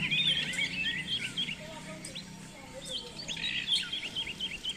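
Many small birds chirping together, their short rising and falling notes overlapping.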